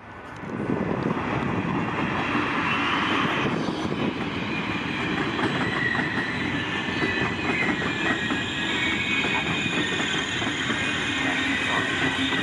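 Trenitalia regional passenger train of green-and-white coaches running past, its wheels clacking steadily over the rail joints.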